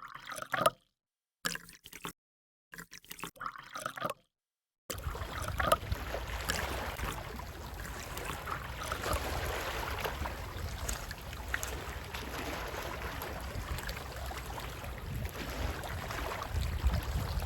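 Gentle sea waves washing and trickling, with wind. For the first five seconds the sound comes in short snippets broken by dead silence, then it runs on steadily with a low rumble beneath.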